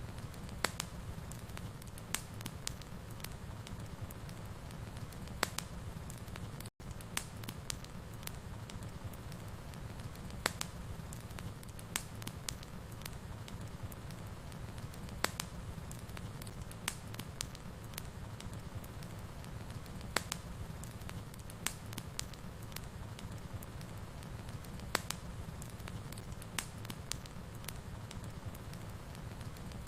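Wood fire crackling in a fireplace: irregular sharp pops and snaps over a steady low rumble of the flames, with a split-second break in the sound about seven seconds in.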